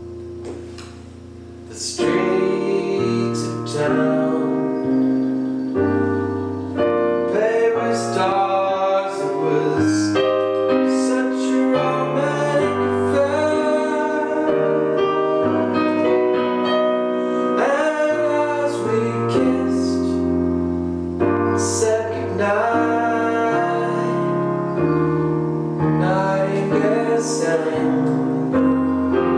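Piano played with a voice singing over it in a slow ballad, softer for the first couple of seconds and then fuller.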